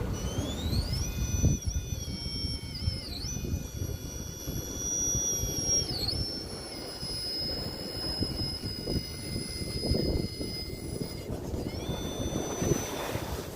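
3Brothers Yellow Jacket 2000kv brushless motor in an RC rock crawler, run by a Mamba X ESC, whining as it drives. The high whine rises about a second in, dips briefly twice, falls away near the end and rises again. A rough low rumble and scraping runs underneath.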